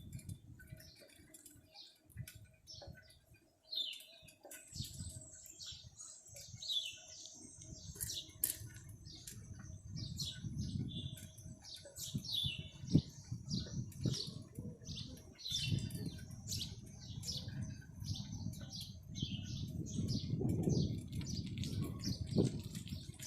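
Birds chirping over and over in short, falling calls, over a low rumble.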